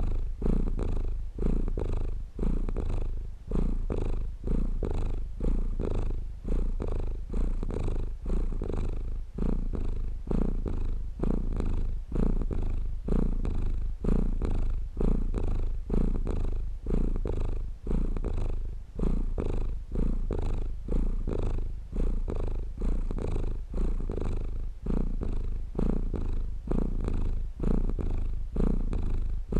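Domestic cat purring close up: a continuous low purr that swells and dips in a steady rhythm about once a second as the cat breathes in and out.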